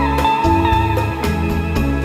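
Instrumental background music: a guitar-led tune with a steady bass and a clear melody line, its notes changing every half second or so.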